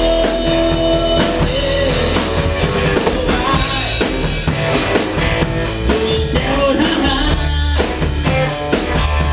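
Rock music: a drum kit keeping a steady beat under guitar and bass, between sung lines.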